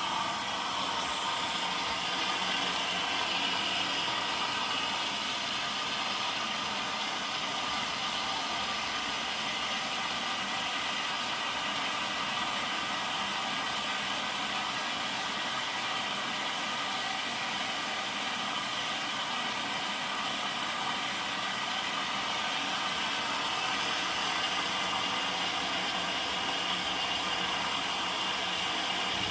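Zanussi DL22 washing machine running steadily: a constant motor whine with a hiss over it, unchanging throughout.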